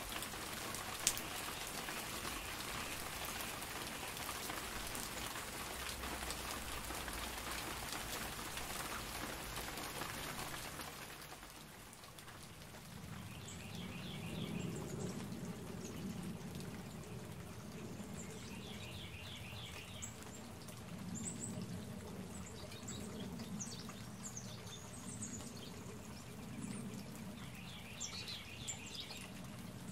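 Steady hiss of rain and dripping water, with a single sharp tap about a second in. After about eleven seconds the rain noise drops away, and a bird calls in short runs of quick repeated notes several times.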